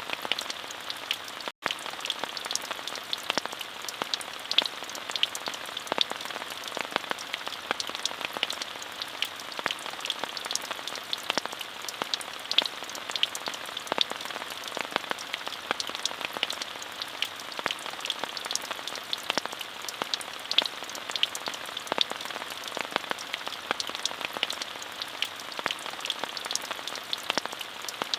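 Steady rain falling, with a dense patter of individual drops ticking close by over an even hiss. The sound cuts out for a split second about one and a half seconds in.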